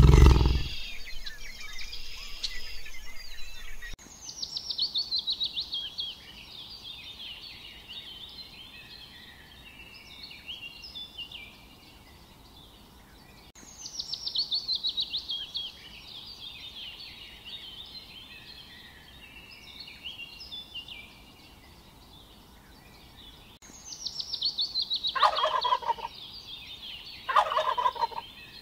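Male turkeys gobbling: a few short loud gobbles near the end. Before them, a rapid falling series of high bird calls with scattered chirps comes three times, about ten seconds apart.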